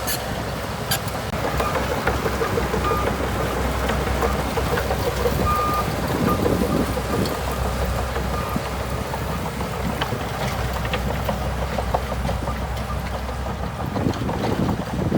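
Heavy earthmoving machinery at work: a diesel engine running steadily with scattered clanks and ticks, and two short high beeps a few seconds in.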